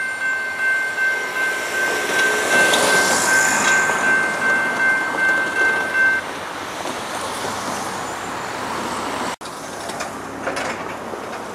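Freight train rolling past with a railroad crossing warning bell ringing about twice a second. The bell stops about six seconds in while the train noise carries on.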